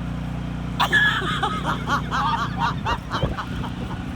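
A person laughing in quick, repeated bursts for about two seconds, starting about a second in. Underneath is the steady low hum of a small dirt bike engine running, which fades near the end.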